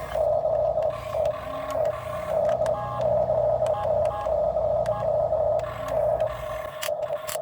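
Dump truck running: a steady high whine that pulses slightly, over a low engine rumble, with scattered clicks and rattles.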